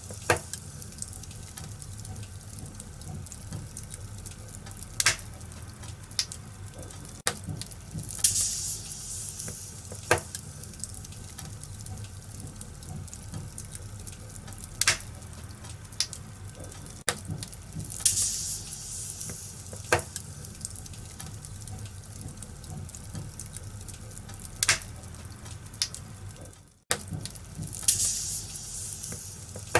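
Wood fire in a fireplace crackling, with sharp pops every few seconds and brief hissing flares over a low steady rumble. The sound cuts out for an instant near the end.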